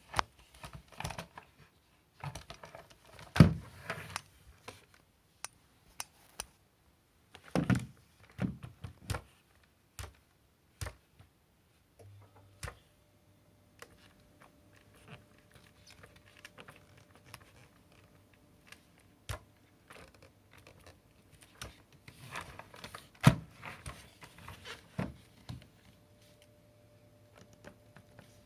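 Scattered clicks, knocks and rustling from objects being handled, with the loudest knocks about three seconds in, near eight seconds and past twenty-three seconds. A faint low hum joins about halfway through.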